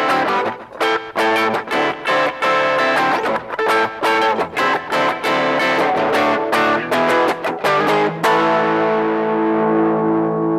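Closing music on electric guitar with effects and some distortion: quick picked notes, then a final chord struck about eight seconds in and left ringing.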